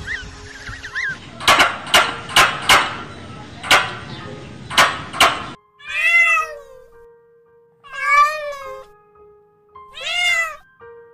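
Domestic cat meowing three times in the second half, each meow rising and then falling in pitch. Before that comes a quick run of sharp, loud clicking bursts.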